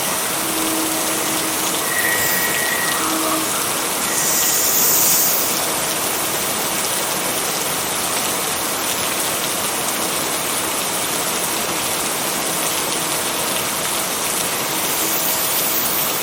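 Steady heavy rain, an even hiss of falling water, swelling briefly louder and brighter about four seconds in.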